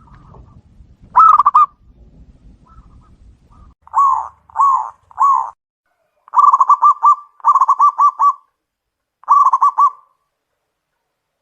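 Zebra dove (perkutut) cooing: a short rolled coo about a second in, then three separate coos, then runs of quick rolled coo notes that end about a second before the close.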